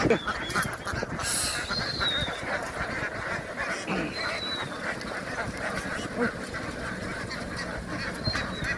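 Domestic ducks quacking and honking continuously.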